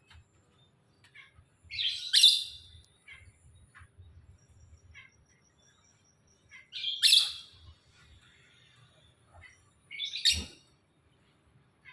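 Bird calls: a loud, short call three times, a few seconds apart, with faint thin high-pitched chirps in between.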